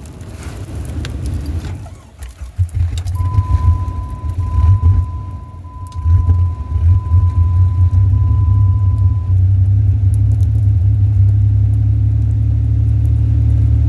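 The 2001 Jeep Grand Cherokee's 4.0 L inline-six idling rough on a cold start in freezing weather. Its rumble dips briefly about two seconds in, runs unevenly, then steadies in the last few seconds. A steady electronic warning chime sounds for about six seconds in the middle.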